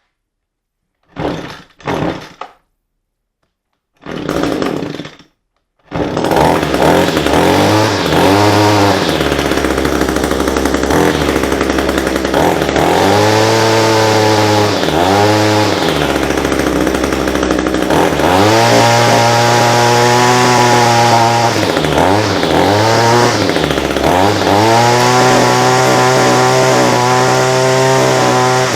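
Echo SRM-225 string trimmer's small two-stroke engine pulled over a few times, catching about six seconds in. It runs and is revved up and back down several times, no longer bogging now that its clogged fuel-tank vent has been opened.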